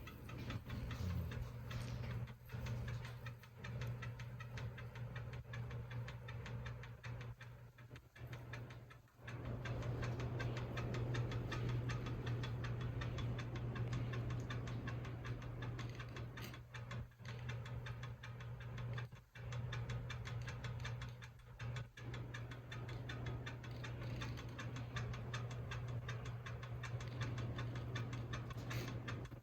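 32-inch Hampton Bay Minuet II ceiling fan, made by SMC in 1998, running steadily with a low motor hum and a fast, even ticking.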